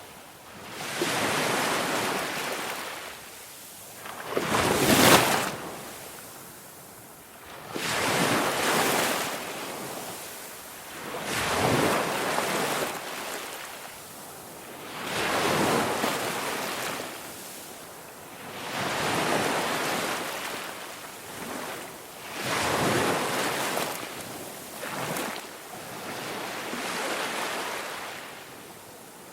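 Ocean waves washing ashore, each swell of surf rising and falling away about every three to four seconds. The biggest wave breaks about five seconds in.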